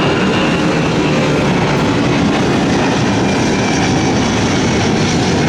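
Boeing 757 jet airliner's engines at takeoff power: a loud, steady jet roar.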